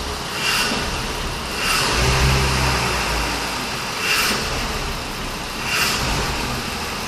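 BMW M54 2.2 straight-six engine running, revved up briefly about two seconds in, with short hisses recurring every second or two. The owner suspects an unmetered air leak into the intake (vacuum leak) behind its uneven running.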